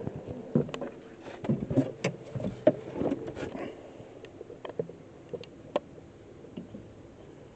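Irregular knocks and clicks with some low muffled rumble, closely packed for about the first four seconds and then only now and then.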